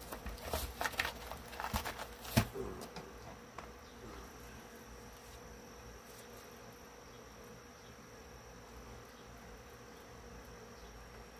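A few sharp clicks and knocks of hand work on the speaker cabinet in the first three seconds, the loudest about two and a half seconds in, then only a steady faint hum.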